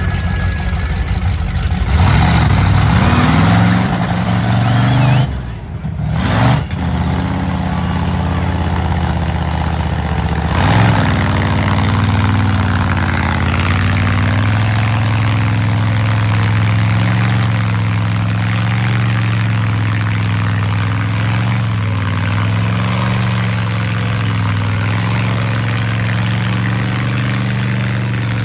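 Mud bog mega truck's engine running hard, its pitch rising and falling as the revs change. It surges about two seconds in, drops away sharply around six seconds, then holds a loud, wavering note.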